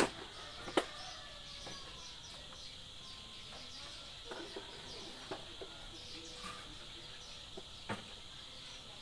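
A few sharp clicks and small knocks of electric-fan parts being handled, over birds chirping and a steady high-pitched hum.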